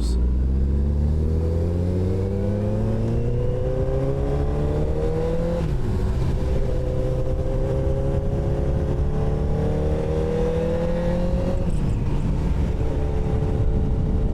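Sport motorcycle engine pulling under acceleration, its pitch climbing steadily, with an upshift about six seconds in and another near the end, each dropping the revs before they climb again.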